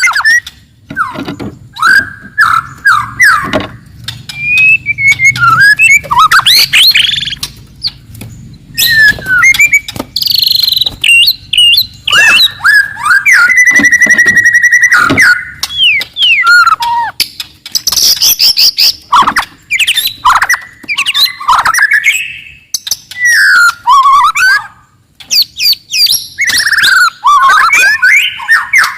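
Wild white-rumped shama singing loudly: a string of varied, rapid whistled phrases with sharp rising and falling notes, broken by brief pauses, with one held trilling note a little before the middle.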